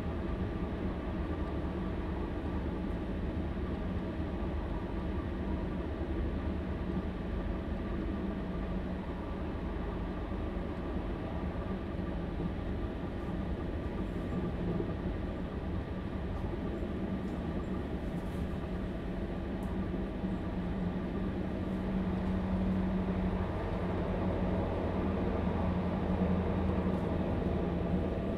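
Stadler Class 755 FLIRT bi-mode train heard from inside the carriage near its diesel power pack: the V8 diesel engine runs with a steady hum over the rumble of the wheels on the track. The engine note grows louder about twenty seconds in.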